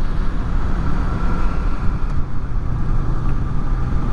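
Honda VFR800 V4 engine running under way, mixed with steady low wind rumble on the rider's fur-covered helmet microphones.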